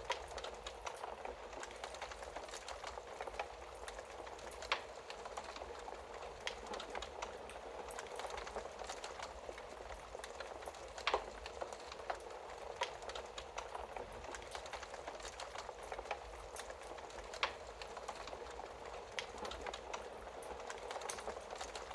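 Wood fire in a fireplace crackling: a steady hiss with frequent small pops and a few sharper, louder snaps spread through.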